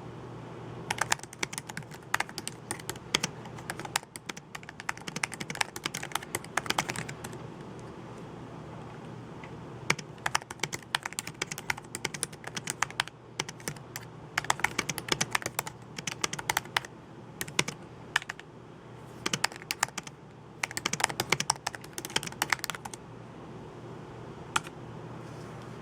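Typing on a computer keyboard: quick runs of key clicks in several bursts of a few seconds, with short pauses between them.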